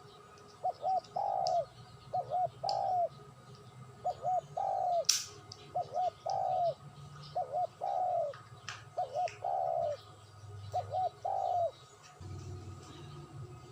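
A dove cooing, repeating one phrase about six times: two short coos and then a longer drawn-out coo. A low steady hum starts near the end, after the cooing stops.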